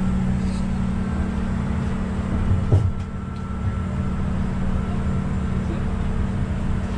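Steady low drone and rumble of a cog railway train running down the rack, heard from inside the wooden passenger coach, with one sharp thump a little under three seconds in.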